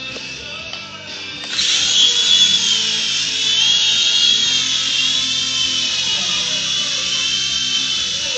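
Small electric motors of a toy RC helicopter spinning up about a second and a half in, then a steady high-pitched whine whose pitch wavers up and down as the throttle changes.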